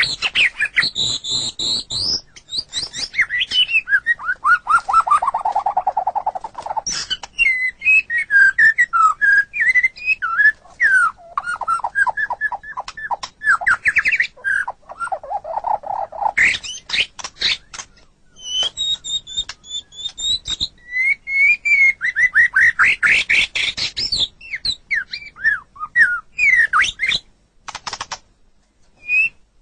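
White-rumped shama (murai batu) singing a long, varied song: clear whistled phrases, fast runs of rapidly repeated notes and high chirps, with short pauses between phrases and a longer one near the end.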